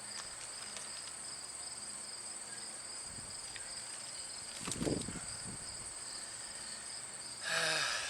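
Insects trilling steadily at a high pitch, a continuous outdoor chorus. A brief soft thump about five seconds in, and a short louder sound near the end.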